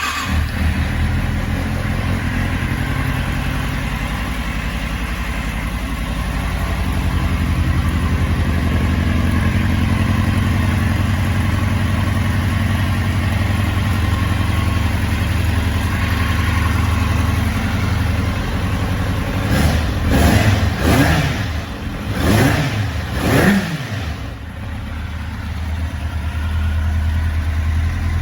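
2007 Kawasaki Z750's inline-four engine idling steadily just after starting, then blipped four times in quick succession about two-thirds through, each rev rising and falling back before it settles to idle again.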